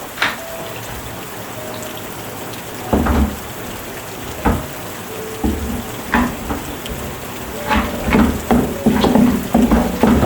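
Rain falling with a steady hiss; from about three seconds in, irregular louder knocks join it, coming more and more often toward the end.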